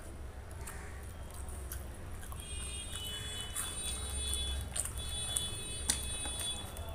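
Close-miked eating sounds: wet chewing and mouth clicks from a mouthful of rice and curry eaten by hand, with fingers mixing rice on a steel plate, over a steady low hum. From about two and a half seconds in until near the end, a high, steady alarm-like tone sounds in the background.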